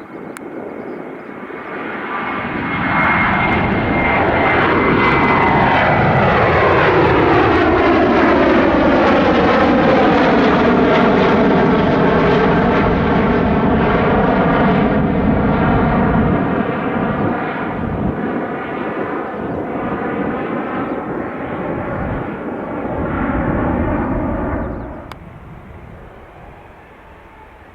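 Jet airliner's engines at take-off power as it climbs out past the runway: a loud rumble that swells with a high fan whine sliding down in pitch, a sweeping, phasing hiss as the aircraft passes, then a slow fade. The sound drops away abruptly near the end.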